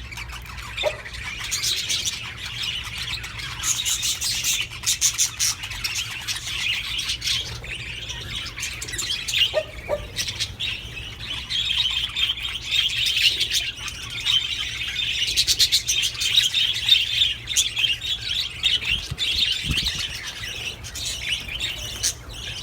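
Budgerigars chattering and warbling without pause, a dense run of fast chirps with the odd squawk: budgie mating chatter, the kind played to pet budgies to get them to breed.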